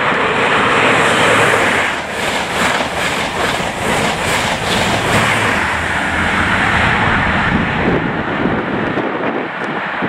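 High Speed Train with Class 43 diesel power cars running through at speed: a loud rush of engine and rolling wheels, with a quick run of rhythmic wheel clacks over rail joints in the middle.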